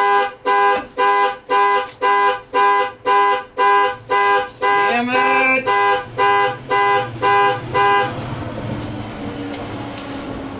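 A horn-like alarm beeping rapidly and evenly, about two and a half short pitched beeps a second, stopping abruptly about eight seconds in; a low steady hum remains after it.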